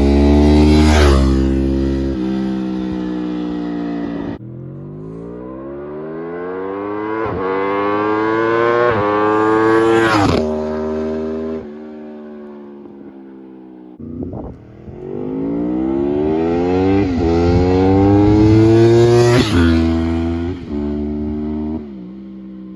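Four-cylinder superbike with an Akrapovic exhaust accelerating hard. The exhaust note climbs steadily in pitch and then drops sharply at upshifts, about ten seconds in and again near nineteen seconds. It comes as separate clips that cut off abruptly.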